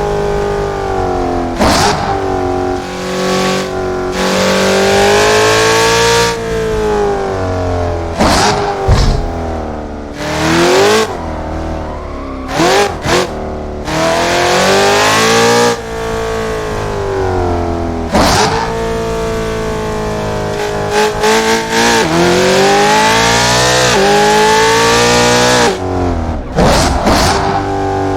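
Car engine driven hard, the revs climbing and dropping again and again as it is shifted up through the gears, with quick rev blips on the downshifts. It runs near steady high revs for a stretch after about four seconds in.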